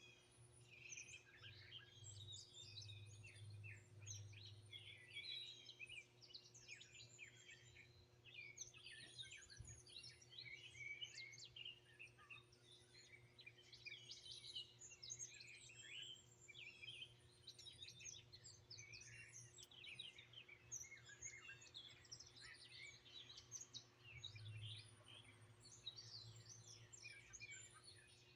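Several songbirds singing and chirping at once, a dense chorus of short chirps and quick trills, faint, over a low steady hum.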